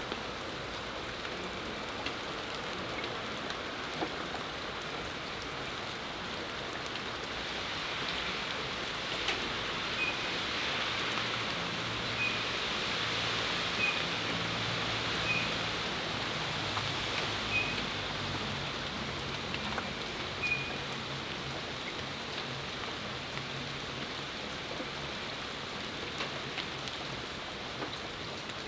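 Steady rain falling and pattering on hard patio surfaces, with individual drops ticking close by. The hiss swells and fades again in the middle, and a bird chirps about six times in that stretch.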